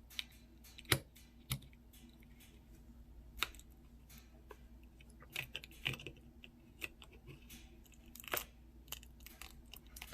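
Scattered faint clicks and crackles from the plastic cover of a Samsung Gusto flip phone being pried at, the cover held on tight by silicone sealant.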